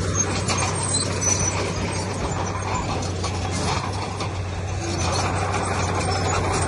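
Heavy diesel earthmoving machinery running steadily, with a constant low engine hum under a dense noise of clatter and grinding.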